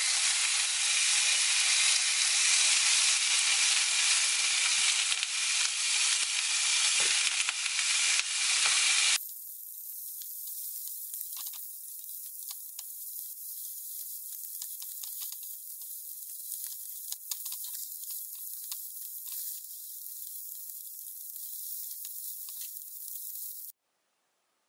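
Beef steak, garlic and mushrooms searing in a frying pan, a loud, steady sizzle. About nine seconds in it cuts abruptly to a quieter, thinner sizzle with small pops, which stops suddenly near the end.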